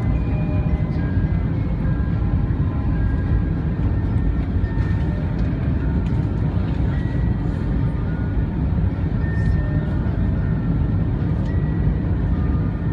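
Steady low roar of engines and rushing air inside an Airbus A320 passenger cabin, with faint short tones heard over it now and then.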